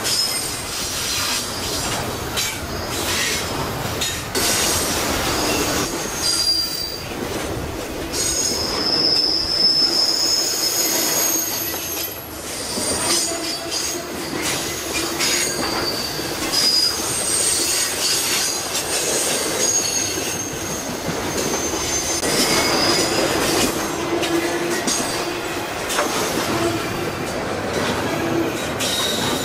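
Freight train cars rolling past on steel rails: a steady rumble and clatter of wheels, with high-pitched wheel squeals that come and go throughout.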